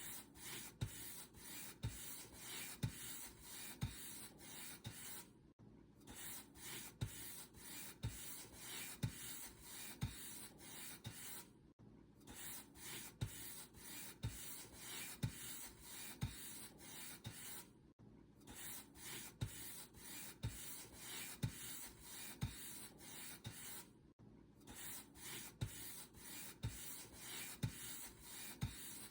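Paint brush bristles stroking back and forth across a surface, a dry rubbing swish at about two strokes a second, with a short break every six seconds or so.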